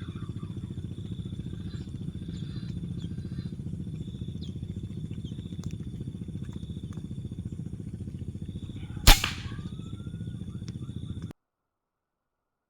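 A single sharp PCP air rifle shot about nine seconds in, over a steady low rumble.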